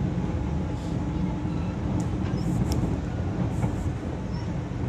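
Manila MRT-3 light rail train running, heard from inside the passenger car: a steady low rumble with a few faint clicks near the middle.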